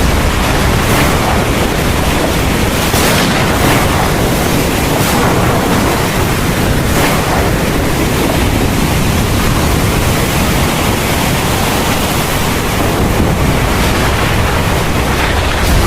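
Heavy rain of a thunderstorm falling steadily, a dense even hiss with a strong low rumble underneath and a few brief swells.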